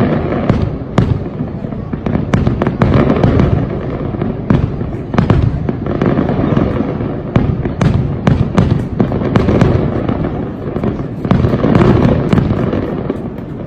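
Fireworks display: shells bursting in rapid, overlapping sharp bangs over a continuous low rumble, with no let-up.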